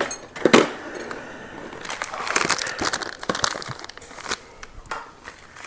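Plastic packaging of Oreo crumbs crinkling as it is handled: an irregular crackly rustle, busiest in the middle.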